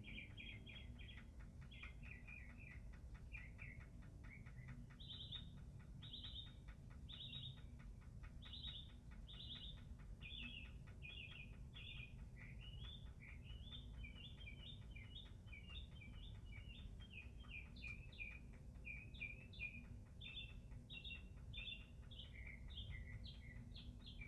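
A bird singing faintly, repeating short high chirping phrases several times each before switching to a new phrase, over a faint low steady rumble.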